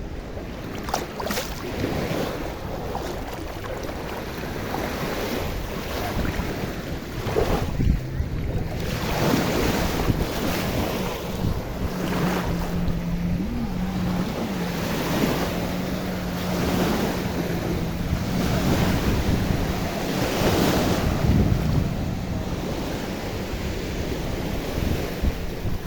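Sea waves washing on the shore, with wind buffeting the microphone. A steady low motor hum runs through the middle stretch.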